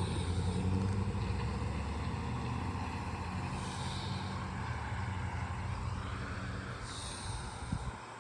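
Road vehicle engine running with a low hum that slowly fades away.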